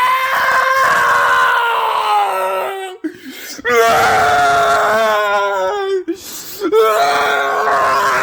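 A person's voice wailing in three long, loud cries of dismay, each held for two or three seconds and sagging in pitch at its end.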